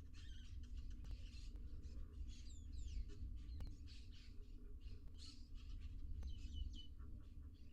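Birds chirping: many short, high chirps and quick sweeping whistles, over a low steady hum.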